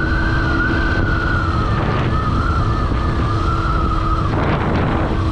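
Honda CRF150L single-cylinder motorcycle under way at steady speed: engine running under wind rumble on the rider's microphone, with a high whine that wavers and dips slightly in pitch, fading out about four seconds in.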